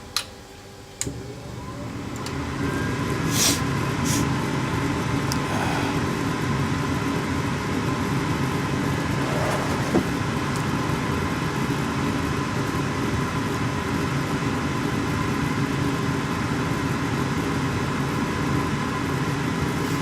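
Two relay clicks from a Trane 80% gas furnace's control board, then its draft inducer motor starting, spinning up over a couple of seconds and running steadily. This is the prepurge of an ignition retry on a furnace that is locking out with failure to ignite.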